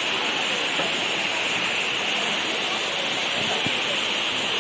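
Waterfall rushing steadily, an unbroken loud wash of falling water.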